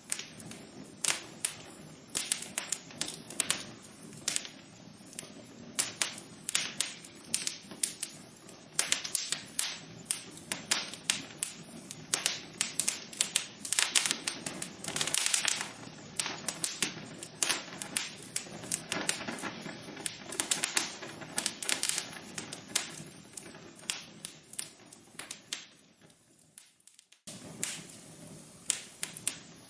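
Wood fire crackling in a fireplace: irregular sharp pops and snaps over a steady low rustle of burning. Near the end it briefly drops almost to nothing, then starts again abruptly.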